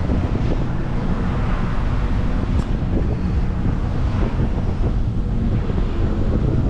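Heavy truck running with a steady low rumble, and wind buffeting the microphone.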